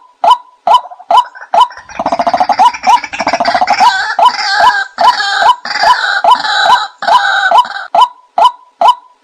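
A bird lure recording: short, sharp call notes repeating about two to three times a second. From about two seconds in until about eight seconds, a dense, rapid bubbling run of calls lies over them.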